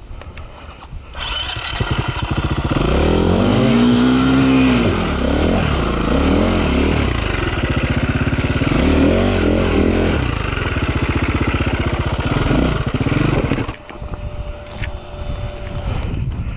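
Dirt bike engine revving in repeated bursts, its pitch rising and falling for about twelve seconds. It then drops off suddenly to a lower, steadier note near the end.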